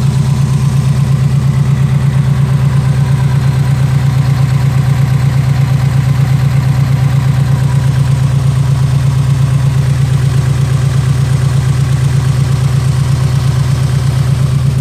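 1993 Mazda Miata's 1.6-litre inline-four idling steadily with an even, rapid pulse, the engine shaking as it runs.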